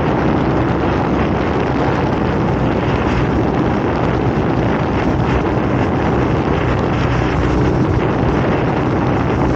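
Wind rushing over the microphone on a moving motorcycle, with the engine's steady drone underneath.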